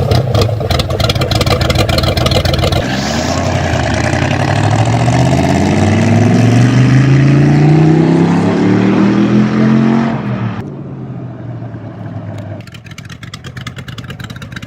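Car engine running loudly, then rising steadily in pitch for about seven seconds as the car accelerates. About ten seconds in it drops back to a quieter, steady run.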